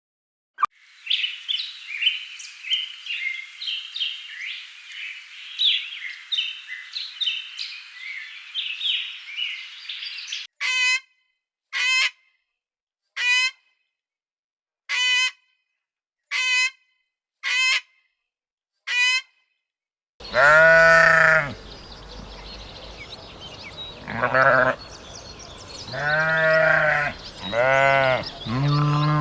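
A run of animal calls: first dense, high chirping, then seven short high calls about a second and a half apart, and from about two-thirds of the way in, several long bleats.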